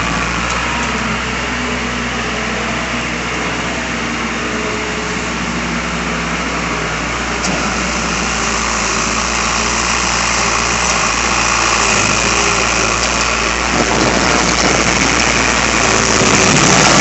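Vehicle engine idling steadily, with a steady rushing hiss over a low hum.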